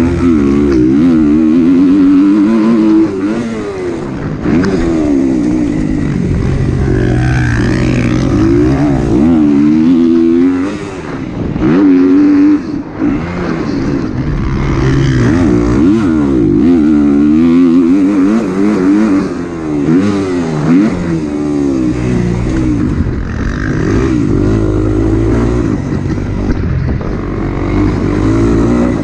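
Kawasaki KX250 four-stroke single-cylinder dirt bike engine being ridden hard, its pitch rising and falling over and over as the throttle is worked and the gears change, with a couple of brief drops in loudness.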